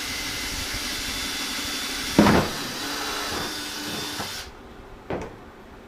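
Electric drill running as it bores a hole through the bottom of a plastic 5-gallon bucket, then stopping about four and a half seconds in. A sharp knock about two seconds in and another near the end.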